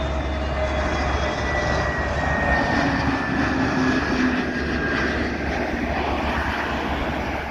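Airbus A321 airliner on final approach passing close by, its jet engines a steady rushing noise with a faint whine that slowly falls in pitch.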